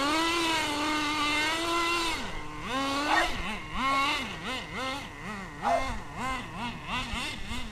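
Team Infinity .21 nitro two-stroke engine in an HSP Warhead 1/10 buggy, freshly run in, running at high revs. It holds a steady high pitch for about two seconds, drops, then its revs rise and fall about twice a second.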